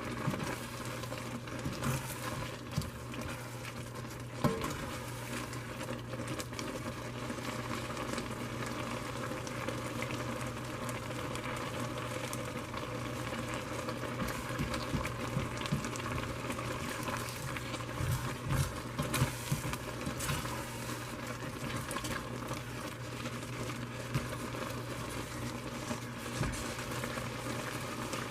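Noodles in teriyaki sauce and water bubbling steadily in a pan on the stove, with a few sharp knocks of a spoon against the pan.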